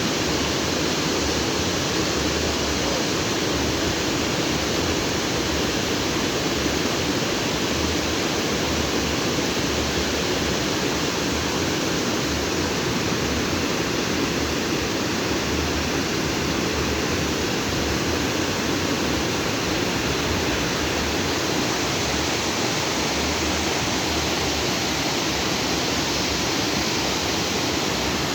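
A fast stream of water rushing and splashing over rocks, a steady full wash of noise.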